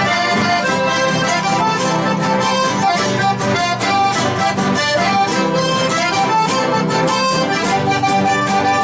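Live chamamé played on accordion with guitar: the accordion carries the melody over a steady strummed guitar rhythm.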